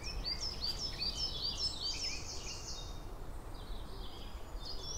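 A songbird singing a quick run of short, high, falling notes in the first few seconds, with fainter notes later, over a steady low outdoor background noise.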